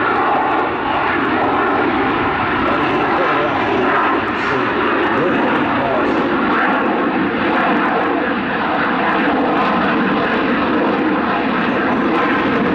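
Twin General Electric F414 turbofans of an F/A-18 Super Hornet in flight, a loud, steady jet noise that holds level throughout.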